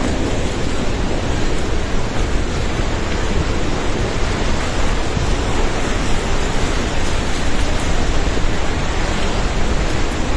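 Swollen river in flood, floodwater rushing in a loud, steady, unbroken wash of noise.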